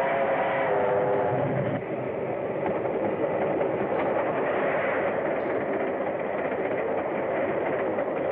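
Steam train running at speed: a steady, dense rushing rumble, heard through the narrow, old-film sound. A chord of held tones fades out about half a second in.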